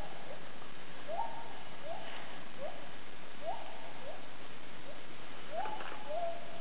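Wild gibbons calling: a series of whooping hoots, each rising quickly in pitch and then holding, repeated a little more than once a second.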